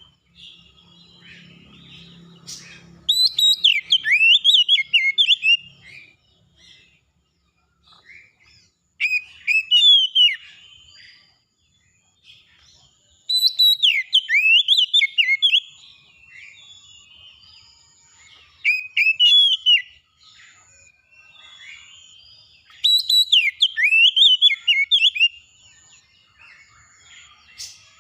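Songbirds singing: loud phrases of quick whistled notes sweeping up and down, coming about every four to five seconds, with quieter chirps between them and a faint repeated high note in the second half.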